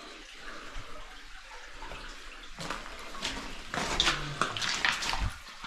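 Water of a small waterfall in a spring cave, splashing and trickling steadily; it grows louder and more uneven about halfway through.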